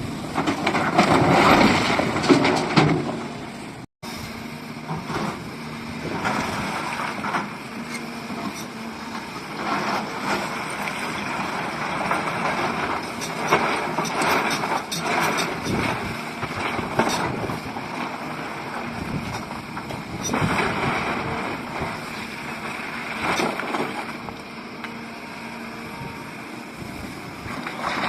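SDLG excavator's diesel engine running as the machine works, with scraping and short knocks over it. The sound cuts out for an instant about four seconds in.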